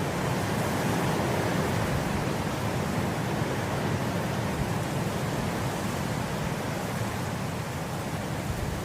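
Steady wind blowing through grass, an even rushing hiss that swells slightly about half a second in and then holds.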